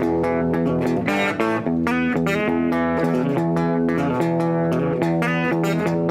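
Instrumental guitar music: plucked guitar notes played in a steady rhythm, without singing.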